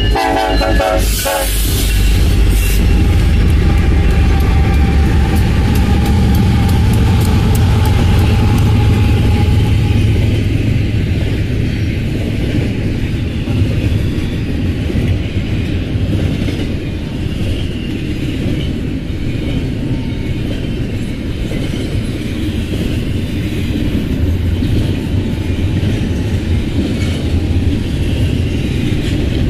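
Multi-locomotive diesel freight train passing close by: a heavy, loud diesel engine rumble for the first several seconds, then the steady rolling rumble and clickety-clack of the intermodal cars going by.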